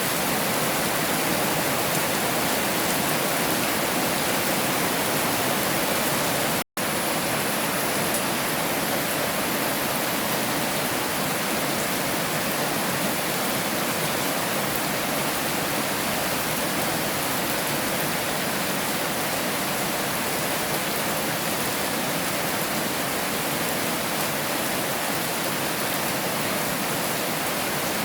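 Heavy rain falling steadily as a dense, even hiss, cutting out to silence for a split second about seven seconds in.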